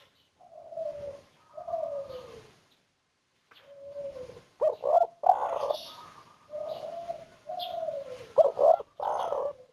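Spotted dove (tekukur) singing its cooing song: a series of falling coos in phrases, with sharper, louder short notes about five seconds in and again near the end. It is a 'kuk 1' singer, valued for a soft, clear 'kuk' note.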